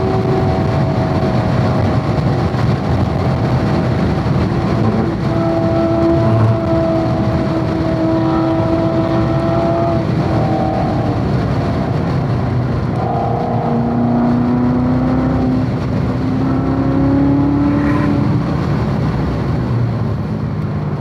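Chevrolet Corvette C7 Z06's supercharged V8 running hard at track speed, its pitch holding and then stepping to new levels several times through the gears and corners, over heavy road and wind noise.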